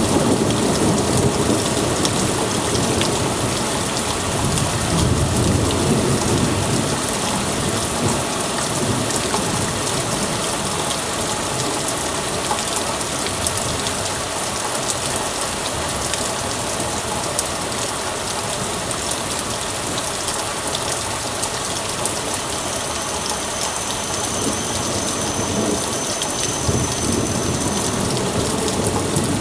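Heavy downpour of rain pouring steadily, with thunder rumbling low through the first several seconds and again near the end.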